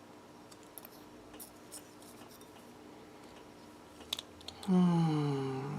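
Light, scattered clicks and scrapes of small carburetor parts being handled during reassembly. Near the end, a man makes a wordless vocal sound of about a second, falling in pitch.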